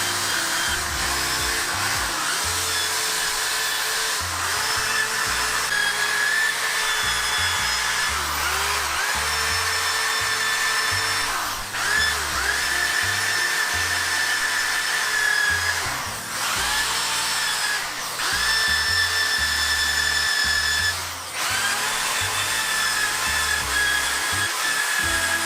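Electric drill spinning a steel wire brush against a motorcycle frame, stripping paint. Its whine is steady, dropping and picking up again three times, over background music.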